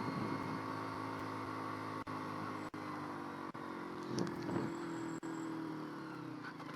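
Motorcycle engine running at a steady pace under road and wind noise, with the sound cutting out for an instant a few times.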